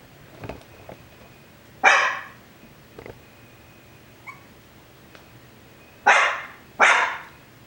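Coton de Tulear barking: three short, sharp barks, one about 2 seconds in and two close together near the end, with a few faint knocks between them.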